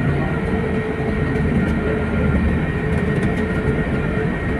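Steady engine and cabin noise of a passenger jet heard from inside the cabin: a constant rumble with a few steady tones over it.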